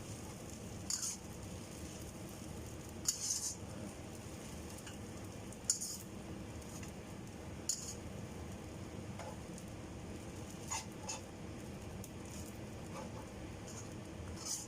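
Rice noodles frying in a pan with a steady sizzle, while a utensil scrapes and clinks against the pan every couple of seconds as they are stirred.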